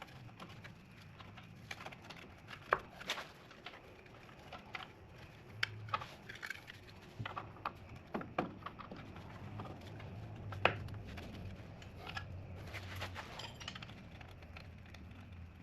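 Scattered light metallic clicks, taps and clinks of hand tools on truck drum-brake parts, over a low steady hum.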